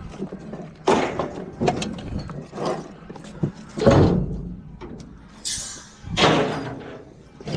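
Heavy thuds and clattering as junk and debris are thrown down, about five separate impacts a second or so apart, the loudest about four seconds in and again past six seconds, with a brief high scrape between them.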